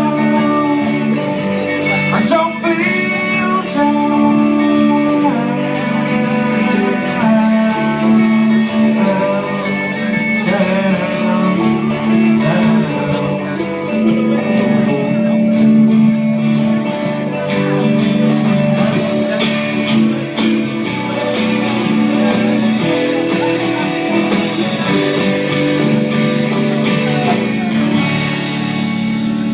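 Live rock band playing a long stretch with no lyrics, guitars to the fore over a steady full-band backing, at the close of a song.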